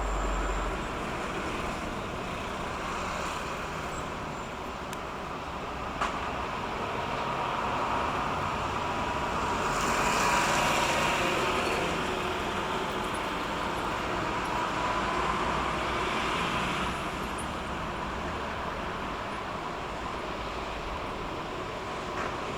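Engine and motor noise, steady, swelling to a peak about halfway through and then slowly fading, with one sharp click a few seconds in.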